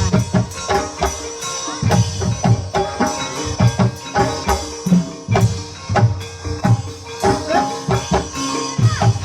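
Javanese gamelan music accompanying an ebeg (kuda kepang) dance: hand-drum strokes with short struck metallophone notes in a steady, lively rhythm.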